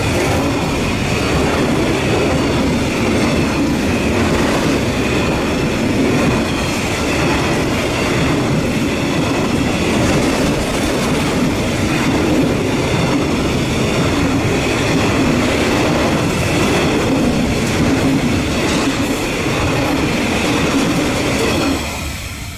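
Bauxite freight train's wagons rolling past, a steady, loud noise of wheels on rail, with faint high wheel-squeal tones; it drops away suddenly near the end.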